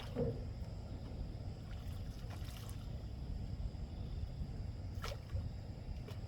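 Small boat on open water: a steady low rumble of water and wind, with two sharp knocks or splashes, just after the start and about five seconds in.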